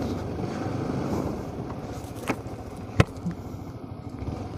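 Motorcycle running on the road, a steady engine and road-noise rumble, with two sharp clicks a little past the middle.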